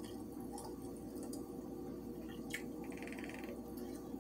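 Wet mouth clicks and smacks of someone chewing food, over a steady low hum. A brief rapid buzz sounds about three seconds in.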